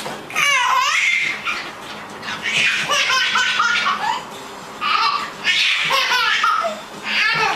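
High-pitched laughter in several separate bursts, each a run of short falling squeals.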